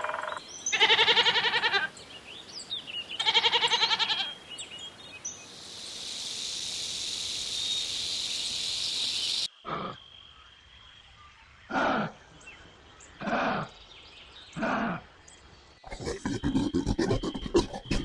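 Animal calls from separate recordings in a row. Two long pitched calls come in the first four seconds, then a few seconds of steady hiss that cuts off suddenly. Four short calls follow, each falling in pitch, and a rapid run of rough calls starts near the end.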